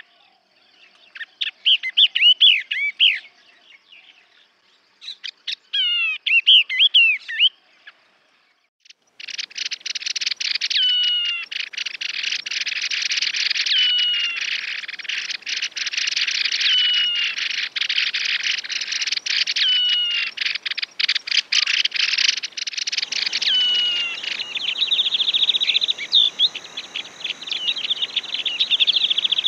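Yellow-eyed babbler song: quick, warbling whistled phrases in short bursts, then after a brief break a clear slurred whistle repeated every couple of seconds over dense rapid ticking. Near the end a steady high buzz runs underneath.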